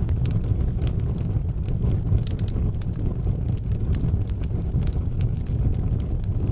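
Wood fire burning in an outdoor fireplace: a steady low rumble with frequent small, irregular crackles and pops.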